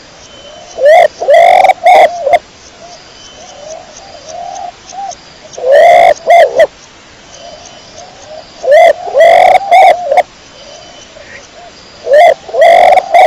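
Domestic pigeon cooing, loud and close. Short bouts of several coos come roughly every three to four seconds, with softer coos in between.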